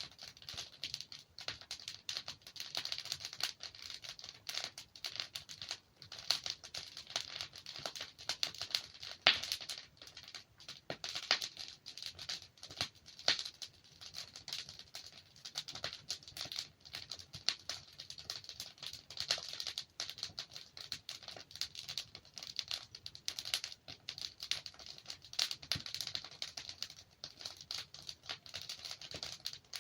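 Wood fire burning in a fireplace: a steady run of irregular crackles with occasional sharper pops as the logs burn.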